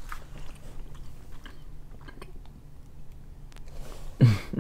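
Faint chewing with small mouth clicks, then one short voiced sound near the end that falls in pitch.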